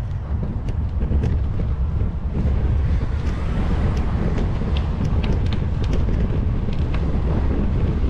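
Wind buffeting the microphone of a GoPro on a moving bicycle: a steady low rumble, with scattered light ticks through the second half.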